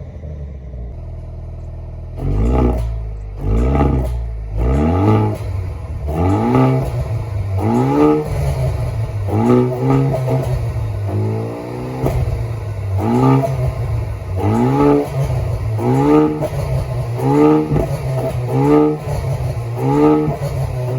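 Haval H6 GT's turbocharged four-cylinder engine idling, then revved in quick repeated blips from about two seconds in. There is roughly one blip every second and a half, each rising and falling in pitch.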